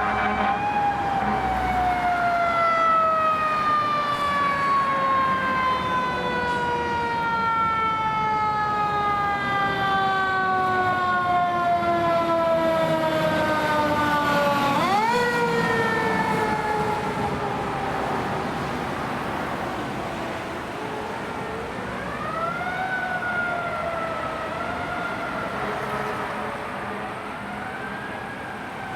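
Federal Signal Thunderbolt outdoor fire siren, a motor-driven mechanical siren, slowly winding down in pitch. About halfway through it briefly winds back up and then falls again, and near the end it rises and falls more faintly. It is sounding to alert volunteer members to a fire call.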